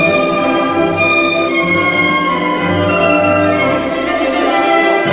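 Orchestral waltz music with violins carrying the melody over a string section.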